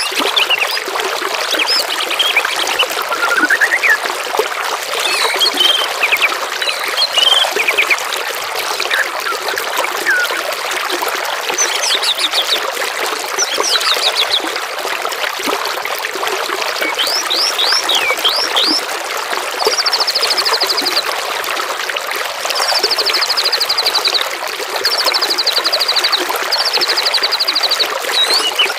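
Flowing, trickling water runs steadily under songbird calls: scattered chirps and quick falling notes, then several bursts of rapid, buzzy trills, each lasting a second or two, in the second half.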